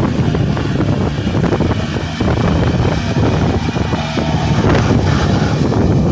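Kubota four-wheel tractor's diesel engine running steadily.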